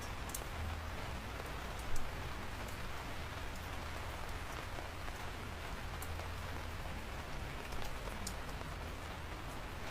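Steady rain falling, with a few sharper individual drops striking, the loudest about two seconds in.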